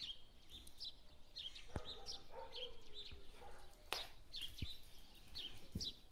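A small bird chirping over and over, with short high chirps several times a second, along with a few soft knocks.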